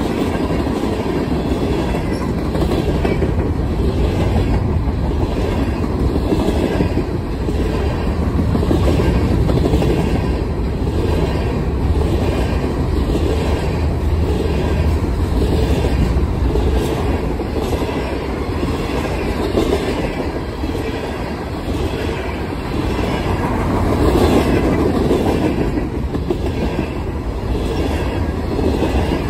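Long freight train of tank cars and covered hopper cars rolling past close by: a steady rumble of steel wheels on rail, with a regular clickety-clack running through it.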